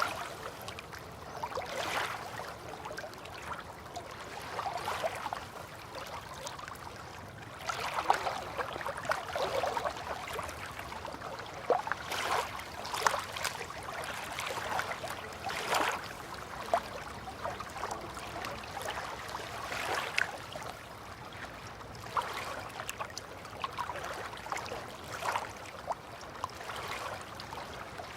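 River water lapping and splashing gently, in small irregular laps every second or two over a soft steady wash.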